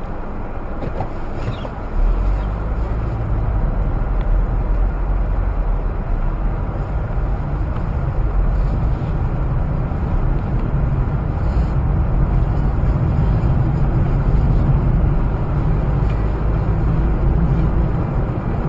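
Steady engine and road rumble of a moving vehicle, picked up by a dashcam microphone, growing louder about two seconds in.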